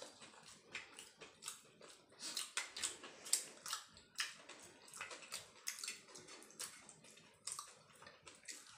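People chewing and munching samosas (singara) with their mouths: a run of irregular, sharp wet clicks and crackles.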